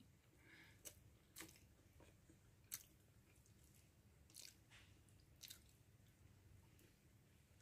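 Faint chewing by a person eating rice and eggplant omelette with her fingers, with a handful of soft, scattered mouth clicks.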